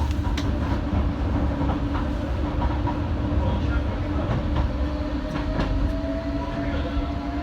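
Docklands Light Railway train running, heard from on board: a steady low rumble of wheels on track with scattered clicks over rail joints, and a motor whine that rises slowly in pitch through the second half as the train gathers speed.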